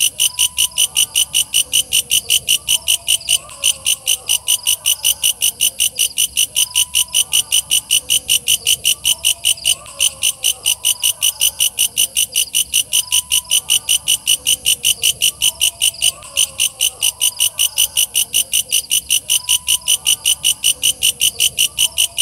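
Walang kecek (belalang kecek) insect singing: a loud, high-pitched, fast and steady train of chirping pulses, about four to five a second, with no break.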